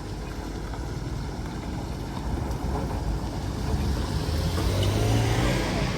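A motor vehicle's engine running, getting louder and shifting in pitch over the last couple of seconds as it comes close.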